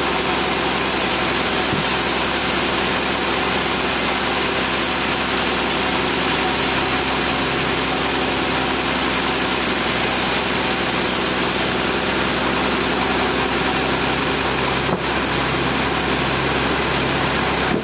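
Sawmill machinery running steadily, a continuous engine-like hum and noise that holds the same level throughout, with a brief dip about fifteen seconds in.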